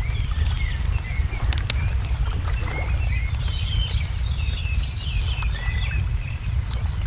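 Small birds chirping and warbling over a steady low rumble, with sharp pops and crackles of a wood fire scattered through.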